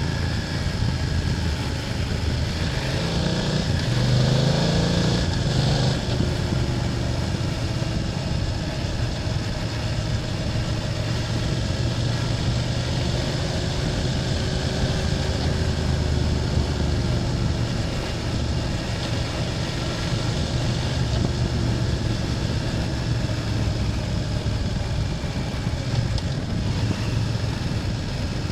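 BMW F800GS parallel-twin engine running under way, its note rising through a brief acceleration a few seconds in, then holding fairly steady.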